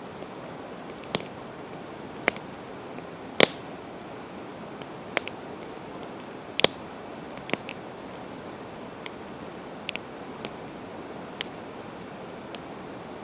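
Campfire of split evergreen wood burning: sharp, irregular crackles and pops, about one or two a second, over a steady hiss. The two loudest pops come about three and a half and six and a half seconds in.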